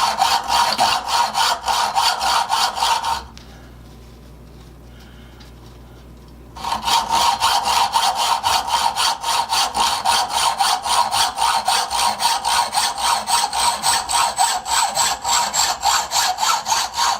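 Hand tool working back and forth on a small stainless steel screw to cut it down, in even strokes about four to five a second. The strokes pause for about three seconds a few seconds in, then resume and keep going to near the end.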